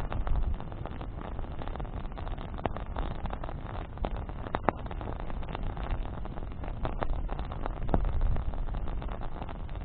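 Wood campfire burning, crackling steadily with sharp pops now and then, over a steady low rumble.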